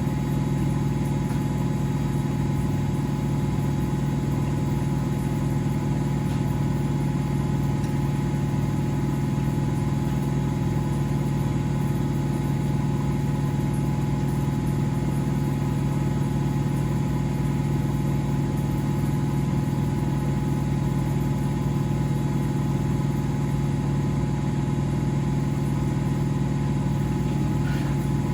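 Laundry machines running with a steady, unchanging hum.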